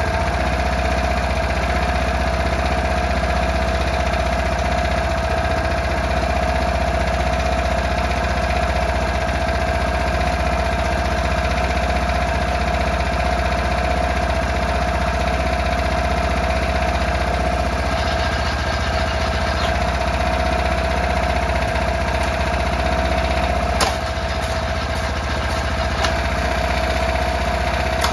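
Small engine of a Yanmar walk-behind cultivator running steadily at idle, having started after sitting unused. A brief click about 24 seconds in, after which it runs slightly quieter.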